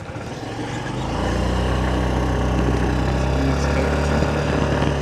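A motor vehicle's engine running with a steady low hum close by. It grows louder about a second in and eases off near the end.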